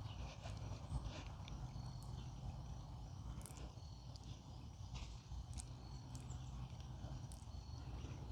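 Faint, scattered small clicks and taps of hands working a metal crimp ferrule up over the double braid of RG400 coax, over a low steady hum.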